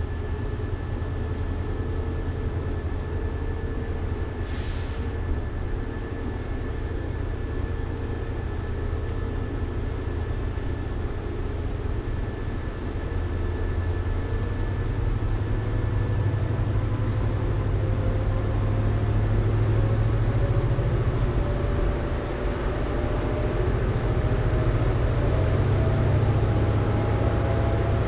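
Freight train locomotive running with a deep steady rumble, its engine note rising slowly in pitch and the sound growing louder after the middle. A brief hiss of air comes about four seconds in.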